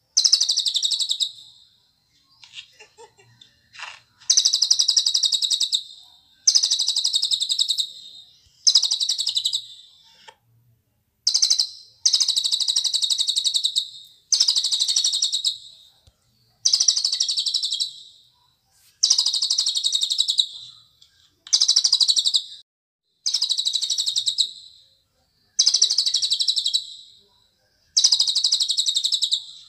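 A cililin bird singing a run of short, fast, high chattering phrases, each about a second long, repeated every two seconds or so with brief pauses between them.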